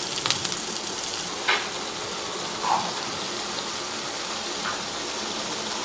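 Onion-and-spice masala sizzling steadily in oil in a metal kadai, with a few sharp clicks of a metal spatula against the pan in the first couple of seconds.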